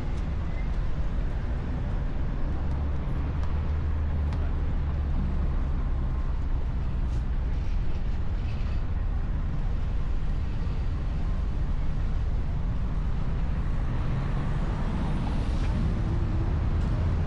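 Steady low rumble of motor traffic or an engine running nearby, with a faint high squeal rising and falling near the end.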